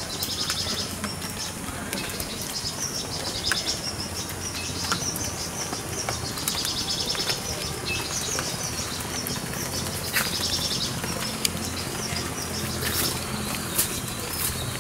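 Birds calling outdoors: short, high trilled chirps repeat about every three to four seconds, over scattered clicks and rustling from grass brushing against the microphone.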